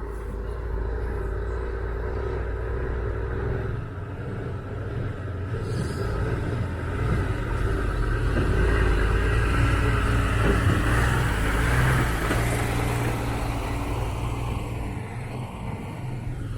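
A motor vehicle's engine and tyre noise, growing louder to a peak about ten seconds in and then fading as it goes past.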